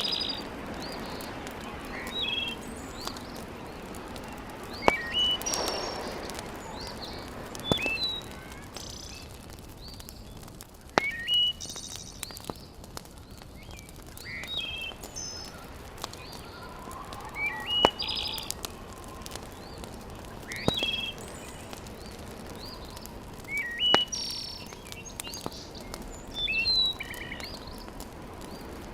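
Wood fire crackling in a fireplace, with occasional sharp pops over a steady hiss, while a songbird outside repeats a short phrase of high chirps every few seconds.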